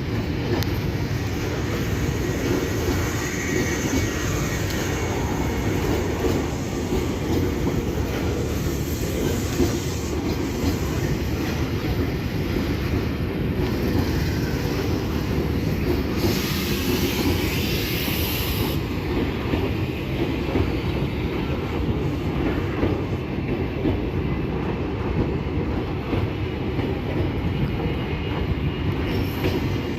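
Tokyu 8500-series electric commuter train running past on the rails, its wheels clattering steadily. A short hiss comes a little past halfway.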